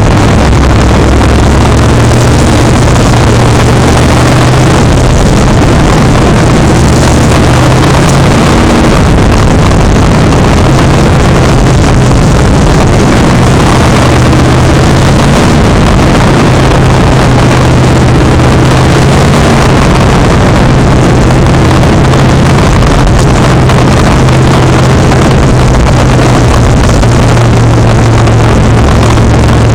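Field of sport trucks running laps on a short oval, their engines blending into one loud, steady drone.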